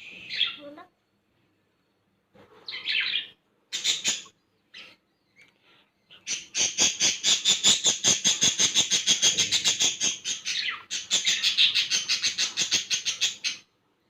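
Baby lovebird chirping: a few short high calls, then about six seconds in a long run of rapid, evenly repeated chirps, several a second, with one brief break.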